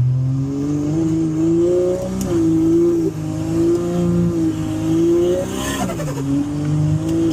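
Ford Fairmont's engine pulling on the road, its pitch rising over the first couple of seconds, holding, then dropping sharply about six seconds in as if for a gear change before steadying again.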